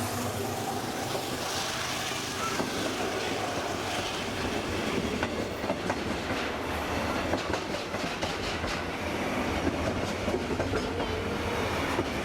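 Railway carriage of a steam train running along the track: a steady rumble with quick clicks of the wheels over the rail joints, the clicking growing busier about halfway through.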